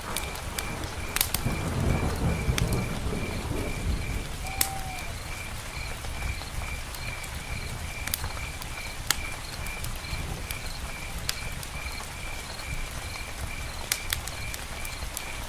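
Steady rain falling, with scattered sharp clicks and a faint high chirp pulsing about three times a second. A low rumble of thunder dies away in the first few seconds.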